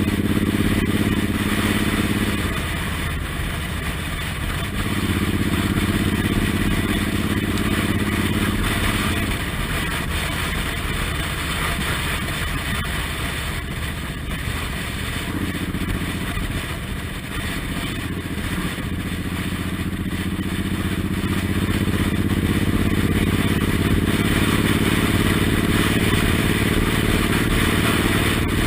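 Suzuki Intruder M1800R's big V-twin engine running on the move. Its note drops and picks up again a few times, then climbs steadily over the last several seconds as the bike accelerates.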